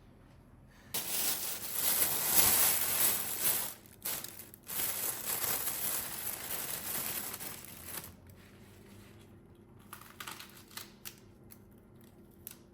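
Plastic packaging crinkling and rustling as it is handled, with a short pause partway through, followed by a few light taps and clicks near the end.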